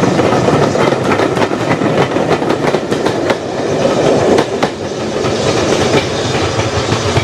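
A train rolling past at close range, its wheels clicking over the rail joints against a steady rumble.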